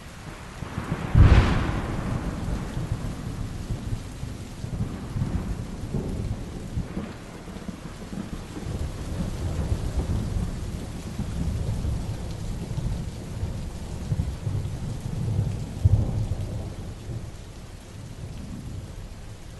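Heavy rain falling steadily with thunder: a sharp crack about a second in, followed by long low rumbling, and another loud thunderclap near the end.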